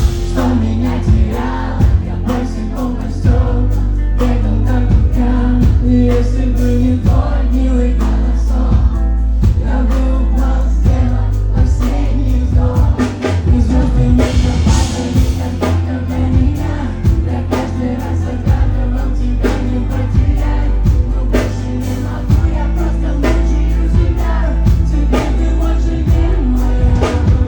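Live amplified pop music: a band with heavy bass and a steady drum beat under sung vocals.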